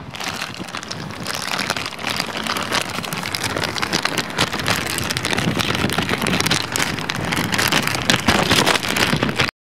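Rain falling hard: a dense patter of drops that grows louder over the first few seconds, then cuts off suddenly near the end.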